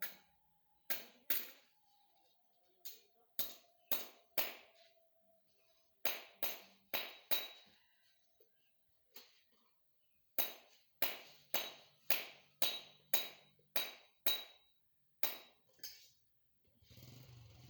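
A long series of sharp strikes, about two dozen in irregular runs, each dying away quickly; a steady low noise begins near the end.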